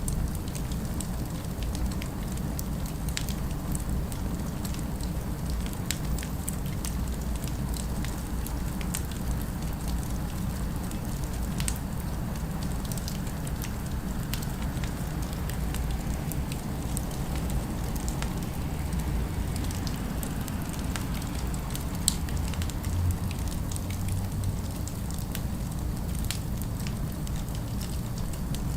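Fire crackling, with scattered small pops and one sharper pop a little after the middle, over a steady low rumble of distant city ambience.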